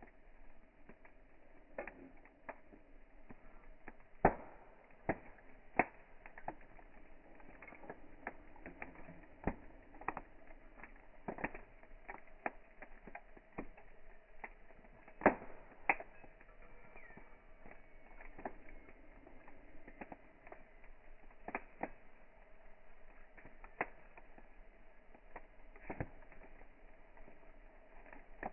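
Campfire crackling: irregular sharp pops and snaps, a few much louder than the rest, over a faint steady hiss.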